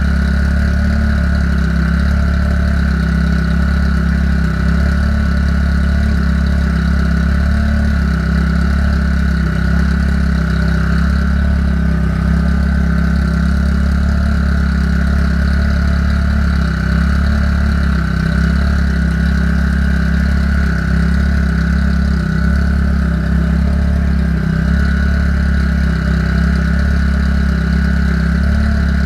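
Car engine idling steadily while its cooling system is being burped of trapped air after a radiator replacement.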